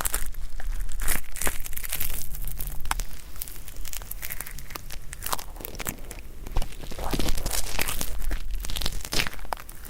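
Ear pick scraping and crackling at stuck, flaky earwax right at the microphone's ear, in both ears: irregular crisp crackles and short scrapes.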